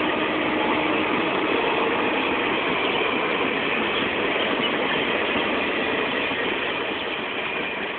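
Indian Railways superfast express train running past at speed, a steady rush of wheel-on-rail noise from its coaches, growing a little fainter over the last two seconds.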